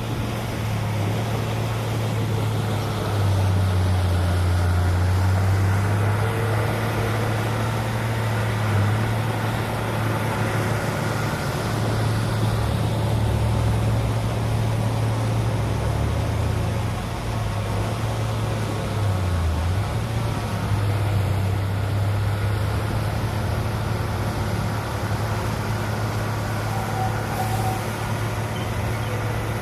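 Diesel engine of heavy earthmoving machinery running steadily under working load. Its pitch drops and recovers partway through, and dips briefly again a little later.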